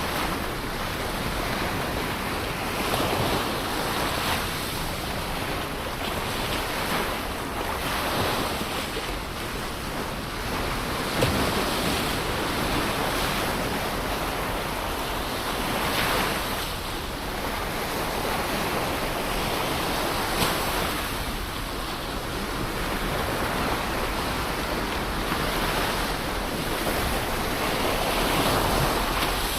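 Ocean waves breaking and washing on a shore, a steady surf rush that swells and eases every few seconds, with some wind on the microphone.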